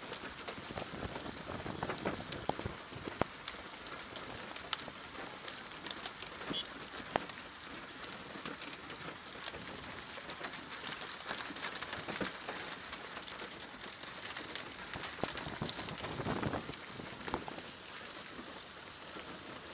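Steady rain falling, with many scattered sharp taps of drops striking hard surfaces, a few louder ones in the first few seconds.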